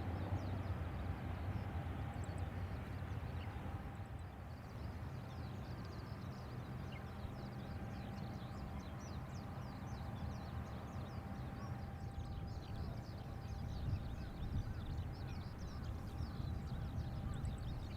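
Steady low hum with a thin steady whine from the parked jet airliner after engine shutdown, and many short high chirps of birds twittering over it.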